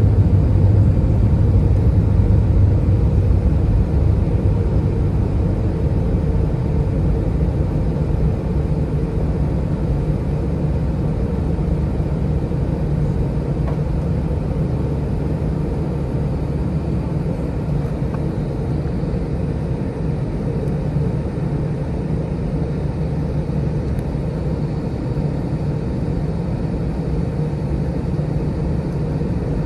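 Steady deep rumble of an Airbus A321-231's IAE V2500 jet engines and airflow, heard inside the passenger cabin, slowly easing in level.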